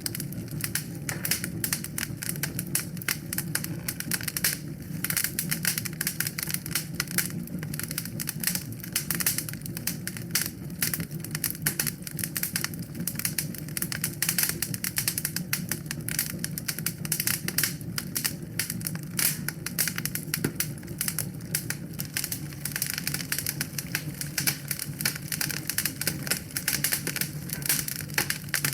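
Wood fire in a fireplace crackling: a dense, irregular stream of small pops and snaps over a steady low rumble of burning.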